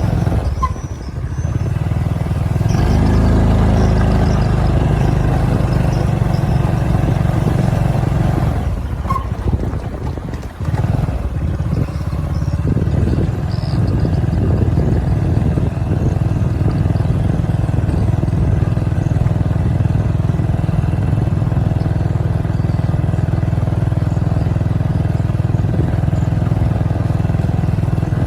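Motorcycle engine running while riding. The engine eases off briefly about a second in and again around nine to ten seconds, then pulls steadily.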